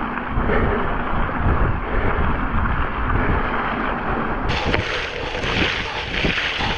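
Wind buffeting the microphone while riding: a steady rushing noise with an uneven low rumble.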